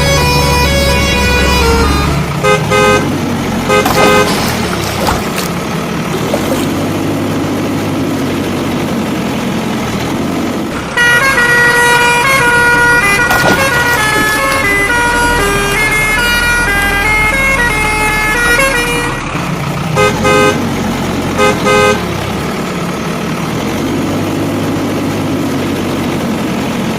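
Cartoon soundtrack: a jingly tune of short pitched notes mixed with vehicle horn toots and engine sounds.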